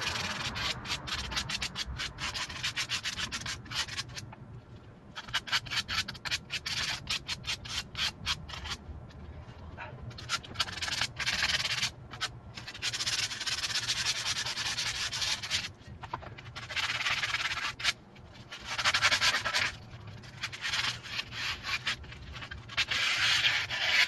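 Sandpaper scrubbed by hand over rusty metal in quick back-and-forth strokes, taking off surface rust before painting. The strokes come in runs of a few seconds with short pauses between them.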